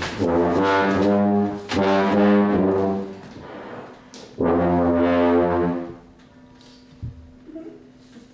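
A low brass instrument, trombone-like, plays long, loud held notes, each lasting one to one and a half seconds, with short gaps between them. The notes stop about six seconds in, leaving a faint steady tone.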